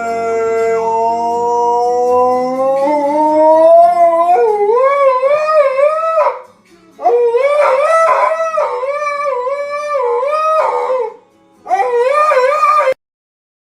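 Dog howling in three long calls: the first held and slowly rising before breaking into a wavering up-and-down yodel, the second wavering throughout, the third short and cut off abruptly near the end.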